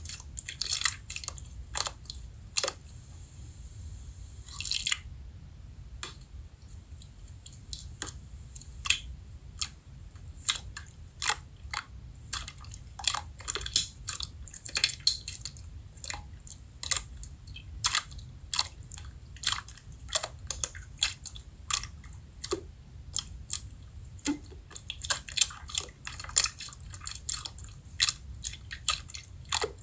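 Slime being squeezed and poked by hand, giving irregular sticky clicks and pops, a few a second, with a brief pause about three seconds in.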